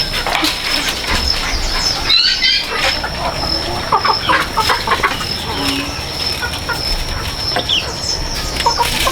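Chickens clucking with scattered short calls, over a steady high-pitched whine.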